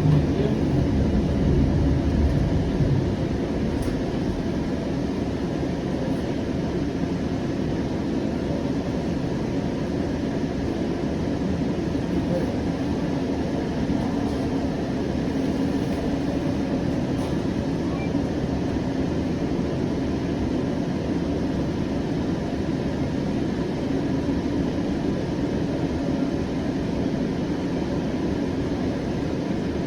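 Siemens S700 light rail vehicle running between stations: a steady rumble of wheels on rail with a faint steady hum.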